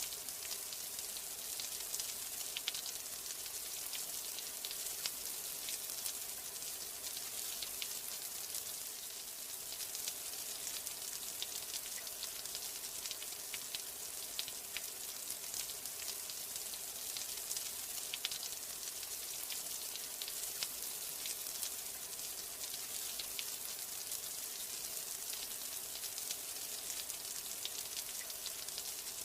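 Steady rain: a dense, even hiss of falling rain with many small drop ticks scattered through it.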